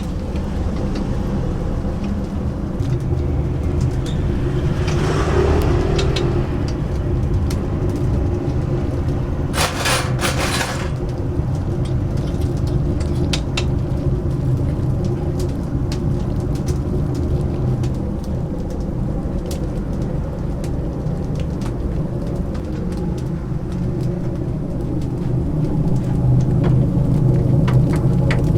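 A steady low mechanical rumble with a faint hum, over scattered sharp crackles and clicks, and a brief hissing burst about ten seconds in.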